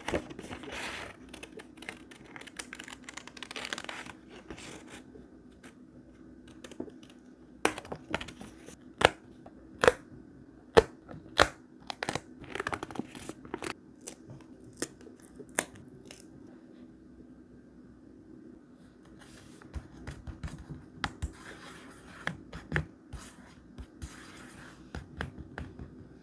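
Paper being handled for scrapbook journaling: rustling and crinkling, then about a dozen sharp clicks or snaps spread through the middle, and more rustling with a few clicks near the end.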